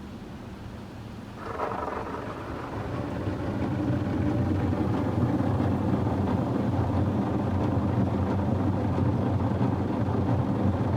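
Oasis BayWash i5 automatic car wash machinery heard from inside the car: a steady low motor hum with a rushing wash noise. It comes in about a second and a half in and builds to a constant level, sounding like the tire scrubbers running.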